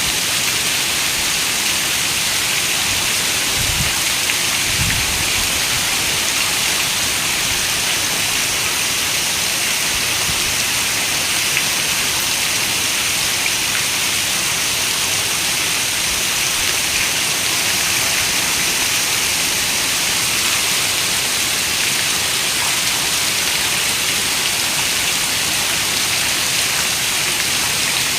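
Steady rain falling, an even hiss with most of its energy in the high range. Two short low rumbles come about four and five seconds in.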